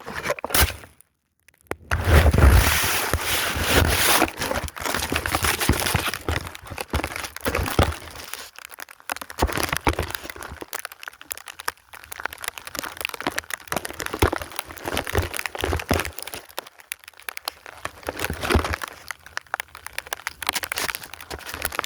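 Snow crunching and crackling against a phone's microphone as the phone is moved about inside packed snow: a dense, irregular run of crackles and scrapes that starts after a second or so of near silence and is loudest in the first few seconds.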